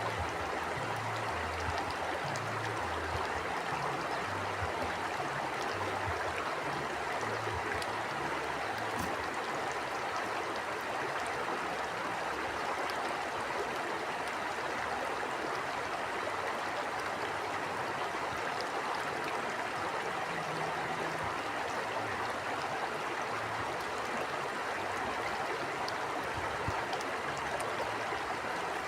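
Stream water flowing steadily, an even rushing with a faint patchy low rumble underneath.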